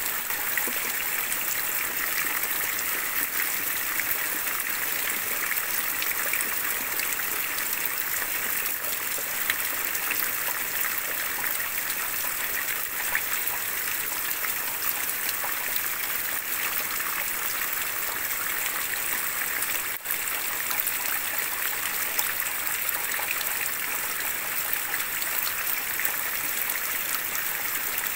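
Steady, heavy rain: a dense, even hiss of falling water flecked with countless small drop ticks, with a momentary dip in level about twenty seconds in.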